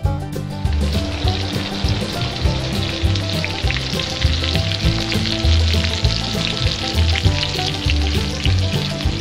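Food sizzling as it fries in a pan, a dense steady hiss that starts about a second in, over background music with a steady bass beat.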